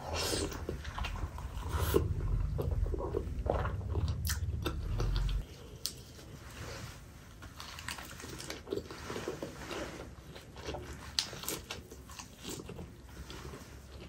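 Close-miked biting into a steamed chicken dumpling (momo) and chewing it, with many short mouth clicks. A low rumble runs under the first five seconds or so and stops suddenly.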